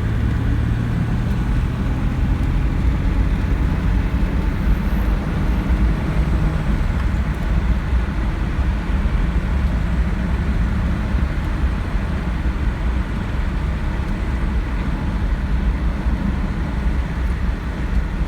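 A 1986 Jeep Cherokee's 2.8-litre V6 engine running under way, with steady tyre and road noise while driving.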